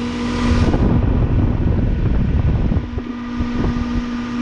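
Goodman heat pump outdoor unit running: a steady electrical hum with fan noise, and air buffeting the microphone for the first two or three seconds.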